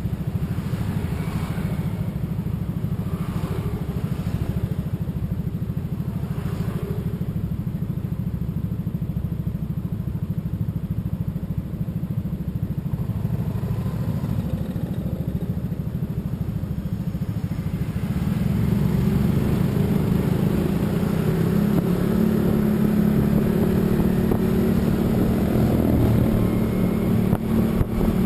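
Motorcycle engine running on the road, growing louder and stronger about two thirds of the way through.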